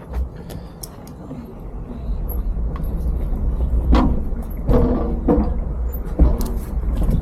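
Low rumble of a motorcycle engine running slowly, growing louder about two seconds in, with a brief voice partway through.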